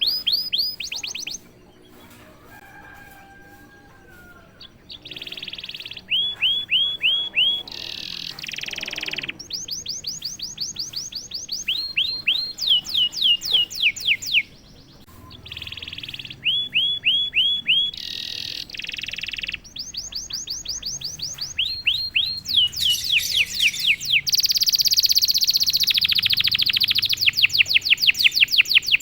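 Domestic canary singing: fast trills of repeated high notes that each sweep downward, several a second, broken by short buzzy held notes. The song drops to a quieter pause for a few seconds near the start.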